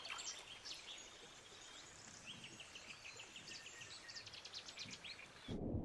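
Faint outdoor ambience with small birds chirping in quick repeated trills, about two seconds in and again near four seconds.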